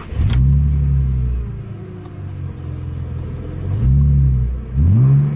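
A vehicle engine revved three times over idle: a long rev just after the start, then two quick blips near the end, dropping back to idle between them.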